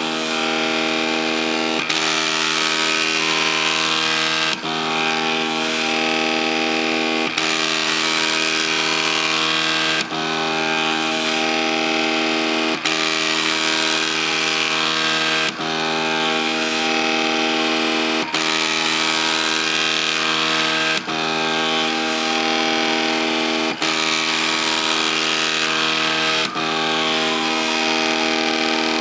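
MakerBot 3D printer's stepper motors whining steadily in several pitches as the print head moves, some pitches gliding up and down as it changes speed, with a brief break about every three seconds.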